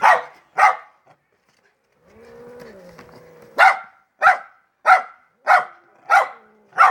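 Poodle barking sharply at a cat: two barks, a pause filled by a long, falling wailing cry, then a steady run of six barks less than a second apart.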